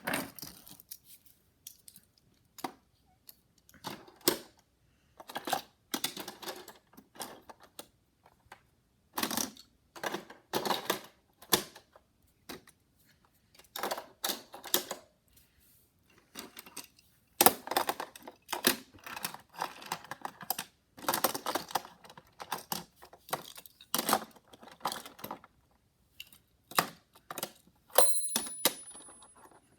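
Hot Wheels die-cast toy cars being handled, clicking and clattering against each other in irregular bursts with short pauses. Near the end a brief high-pitched metallic ring.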